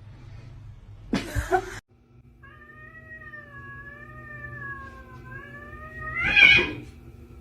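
A cat yowling: one long wavering call of about three and a half seconds that swells into a loud, harsh cry near the end. A short, loud, noisy burst comes about a second in, before the call.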